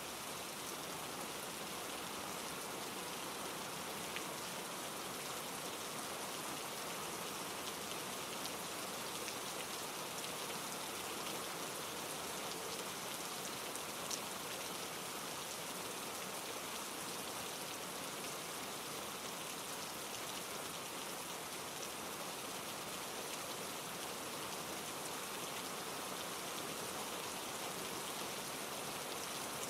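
Steady rain falling through the leaves and pine needles of trees, mixed with the rush of a mountain stream tumbling over rocks, with a few faint drop ticks.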